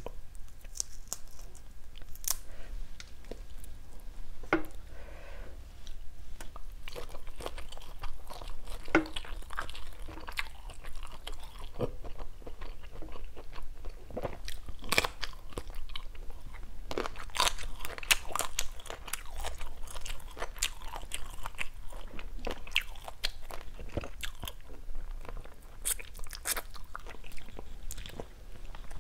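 Close-miked chewing and crunching of grilled shrimp, with irregular sharp crackles as the shells are peeled and the meat is bitten.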